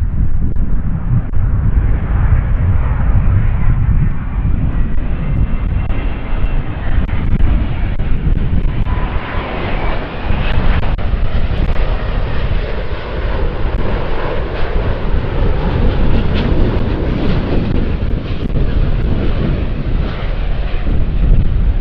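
Jet airliner engines growing louder, with a high whine coming in about nine to ten seconds in, over gusty wind buffeting the microphone.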